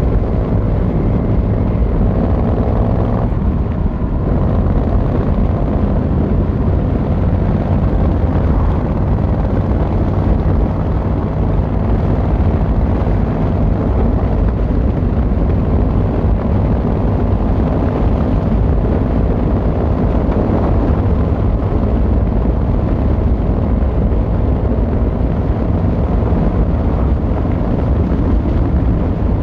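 Yamaha XVZ1300 Royal Star's V4 engine and exhaust running on the move, with a rising engine note for the first three seconds or so that then gives way to a steady low rumble mixed with wind rush.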